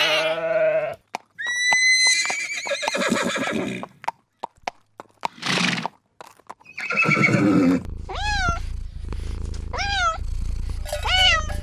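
A string of farm-animal calls cut one after another: bleat- and whinny-like calls with short gaps and clicks between them. About two-thirds of the way in, short rising-and-falling calls repeat roughly once a second over a steady low hum.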